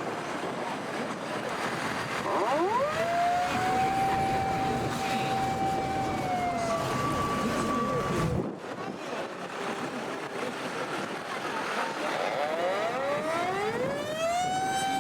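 Fire engine sirens over background traffic noise. One siren winds up in pitch, holds steady for a few seconds and then falls away. After a brief higher steady tone, another siren winds up near the end and holds.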